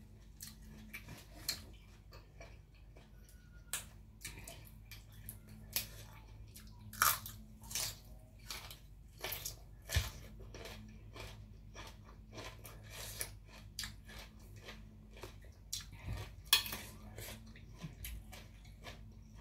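A person chewing close to the microphone, eating blanched squid and crisp raw vegetables: irregular wet mouth smacks and crunches, with a few louder bites scattered through.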